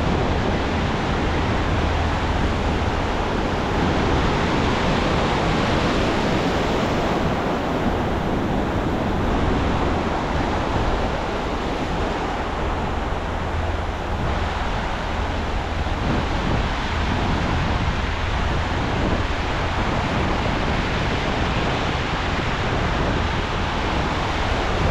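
Ocean surf breaking and washing up the beach, mixed with wind buffeting the microphone.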